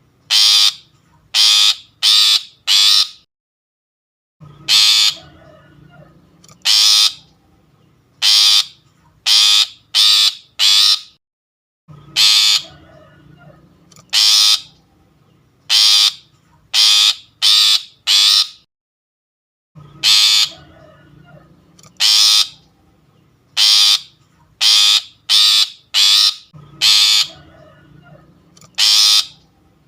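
Long-tailed shrike (pentet) lure call: short, harsh calls in bursts of four or five, with pauses of a second or two between bursts. The same sequence repeats as a looped recording.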